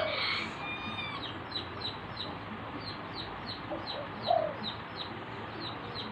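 Birds calling: a rapid, even series of short high chirps, about three a second, with a louder call at the start and a short low call about four seconds in.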